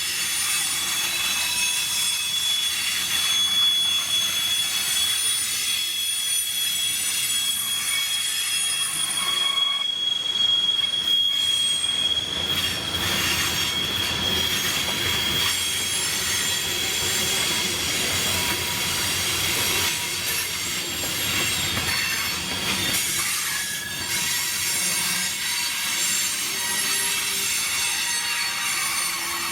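Freight cars of a manifest train rolling past with wheels squealing against the rails: a steady high-pitched squeal that fades about halfway through, over the constant rumble of the train.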